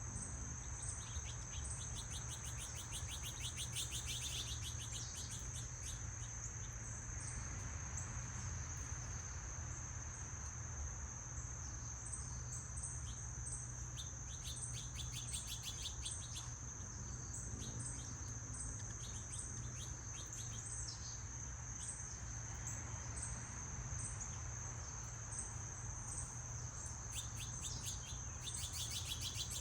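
Insects trilling in one steady, continuous high tone, with birds chirping now and then in short runs of quick repeated notes, over a low steady rumble.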